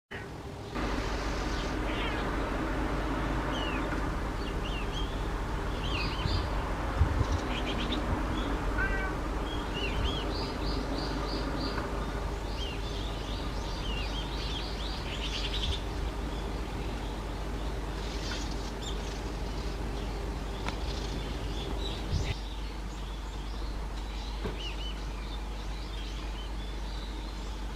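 Wild birds calling: many short high chirps, quick up-and-down notes and fast trills, repeated irregularly, over a steady low background hum.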